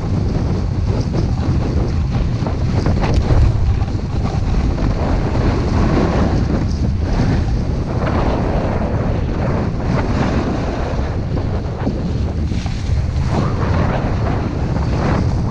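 Wind buffeting the camera's microphone during a ski descent: a loud, steady rush with a heavy low rumble and repeated surges of hiss.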